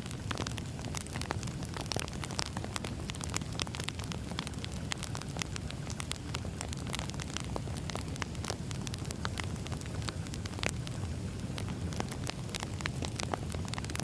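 Campfire crackling: dense, irregular pops and snaps over a steady low rumble.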